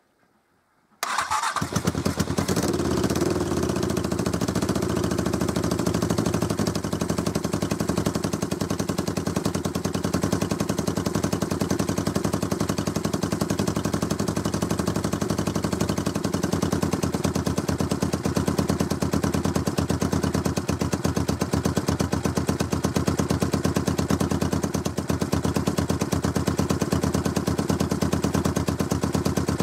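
Suzuki GSX400T's air-cooled parallel-twin engine starting up about a second in, on its first run after more than ten years laid up, then running steadily with a fast, even beat.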